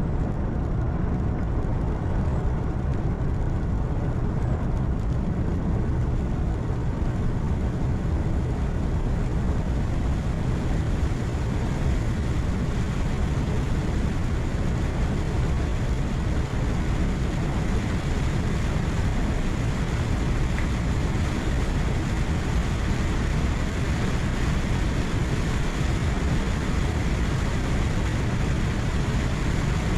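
Heavy truck cruising on a highway, heard from inside the cab: a steady low engine drone with constant tyre and road noise.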